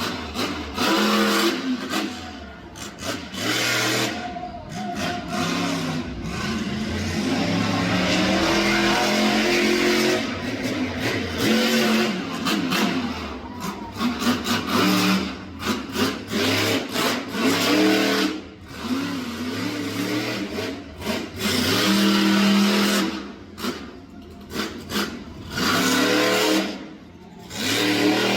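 Monster truck engine revving hard again and again, the pitch climbing and falling with each burst of throttle, with many brief dropouts in the sound.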